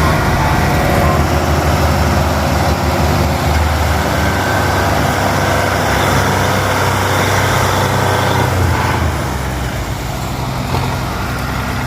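Fiat 480 tractor's diesel engine running hard under load while pulling a stuck trolley, then easing off about nine seconds in.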